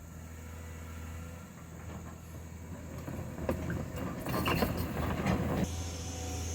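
Heavy road-building machinery's diesel engine running steadily. About halfway in, a couple of seconds of loud clattering and knocking.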